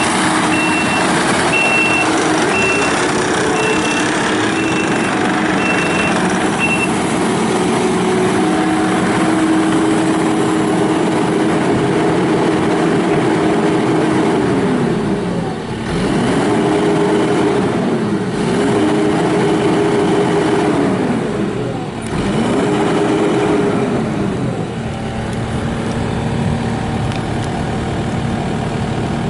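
Kubota SVL95-2S compact track loader's diesel engine running at high revs, with its reversing alarm beeping about twice a second for the first several seconds. Later the engine revs dip and recover four times, then drop to a lower steady idle near the end.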